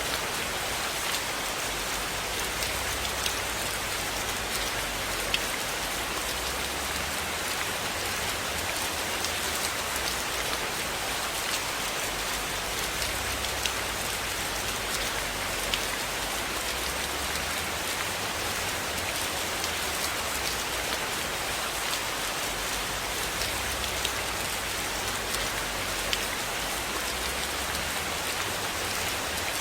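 Steady rain falling, an even dense hiss, with scattered sharp ticks here and there.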